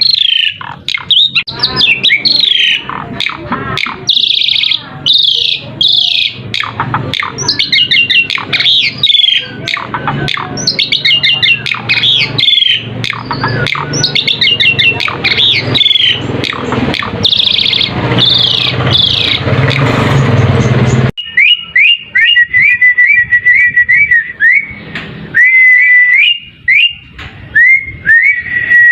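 Asian pied starling (jalak suren) singing a fast, varied song of chattering, squeaky notes and whistles. About two-thirds of the way through, the recording cuts abruptly to a different take of short, repeated whistles on one pitch.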